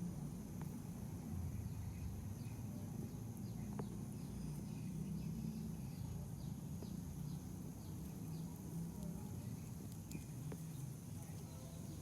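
Outdoor ambience: a steady low rumble with faint, rapid insect chirping and a thin high whine above it, broken by a few small clicks.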